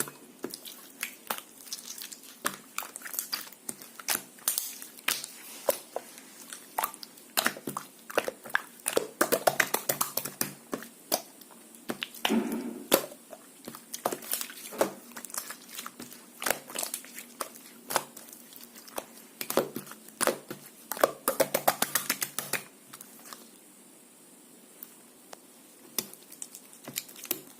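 Soft white slime being squeezed and worked by hand, giving off quick sticky clicks and little pops in uneven clusters; they stop near the end.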